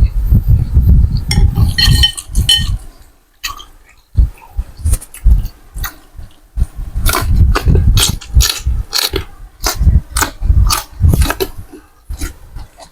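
Close-miked eating of a bowl of Thai boat noodles: chewing and mouth noises in irregular bursts, with a utensil clinking against the bowl about two seconds in.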